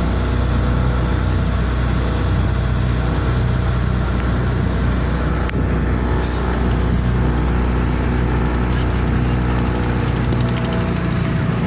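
A boat's engine runs steadily at a constant speed, with a deep, even hum.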